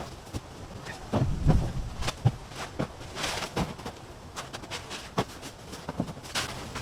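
Irregular knocks, clicks and rustling of junk and debris being picked up and moved by hand, with a heavier thump about a second and a half in.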